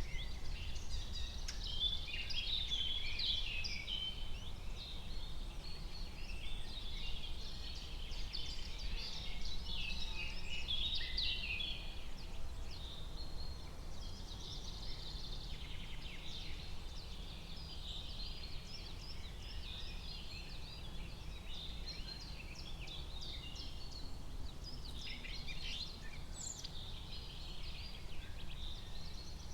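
Forest ambience: a chorus of many small birds chirping and singing at once, busiest in the first half, over a low steady rumble.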